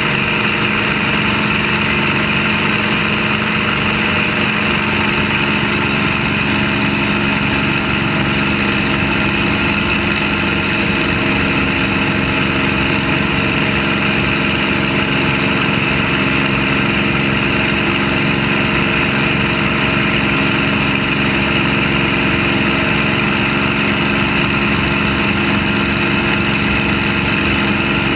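Packard-Merlin V-1650-7 V-12 of a North American P-51D Mustang running steadily at low power, heard from the cockpit, with no change in pitch.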